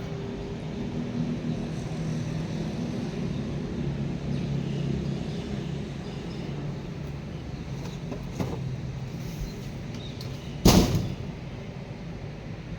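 Low outdoor rumble with a steady engine-like hum, strongest in the first half, like a vehicle passing. About eleven seconds in there is one sharp, loud crack that dies away within half a second.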